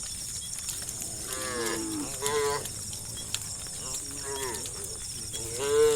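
Four short animal calls, each bending in pitch, the last the loudest, over a steady high chirring like insects.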